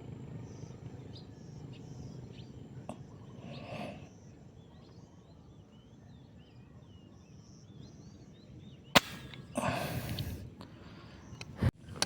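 Faint small-bird chirps over a low outdoor rumble. About nine seconds in there is one sharp crack, followed by a second of rustling noise and another short knock near the end.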